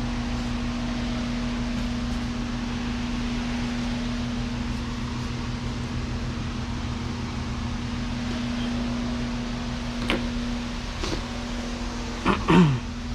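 Steady mechanical hum with a constant low tone. About ten seconds in comes a single click, and near the end a brief clatter of knocks.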